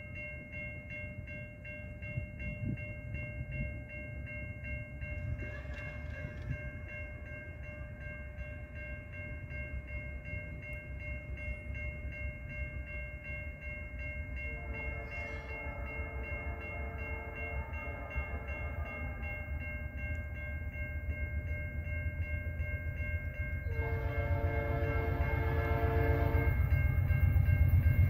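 Approaching freight train led by a GE C44-9W locomotive, its rumble growing steadily louder, while a level-crossing warning bell rings steadily. The locomotive sounds its air horn twice: a long blast about halfway through and a shorter one near the end.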